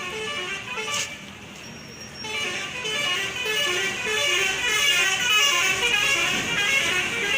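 Road traffic with vehicle horns honking, many short horn tones overlapping and growing louder after about two seconds.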